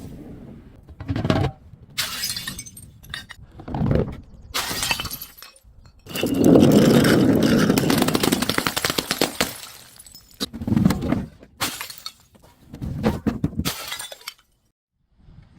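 Glass being broken and crushed: a string of crunching, crackling breaks, the longest and loudest lasting about three seconds from about six seconds in, then several shorter crunches.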